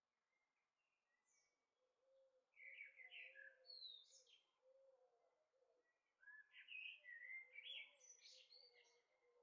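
Small birds chirping and twittering faintly in two bursts of song, about two and a half seconds in and again about six seconds in.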